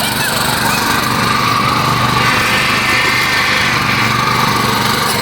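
Mini tractor's small engine running steadily.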